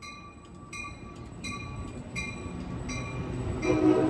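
Amtrak Pacific Surfliner bilevel passenger train rolling past with its bell ringing, about one ding every three-quarters of a second, over a low rumble of wheels that grows louder as the cars come by. Near the end a louder sustained chord of several tones sets in.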